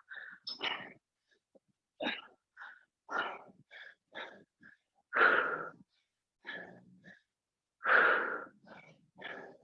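A woman breathing hard and forcefully during a set of dumbbell lifts, with short sharp exhales about once a second. The loudest puffs come a little past halfway and near the end. The breathing is the sound of exertion partway through a timed interval.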